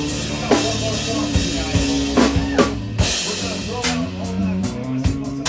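A live three-piece instrumental band playing: drum-kit hits land roughly every half second over held low notes that shift pitch a few times.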